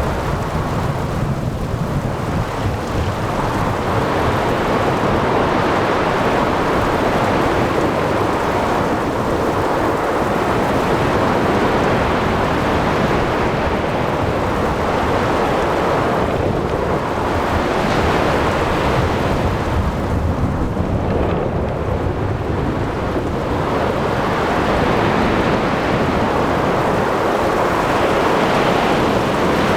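Storm at sea: rain, wind and breaking waves under rumbling thunder, a dense, steady wash of noise that swells and eases every few seconds.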